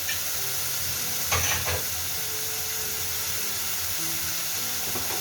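Onion, ginger and garlic paste frying in hot oil in a pan, a steady sizzle, with a brief scrape of stirring about a second and a half in.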